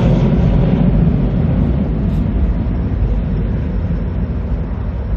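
Jet aircraft engine rumble, low and steady, slowly fading as the plane moves away.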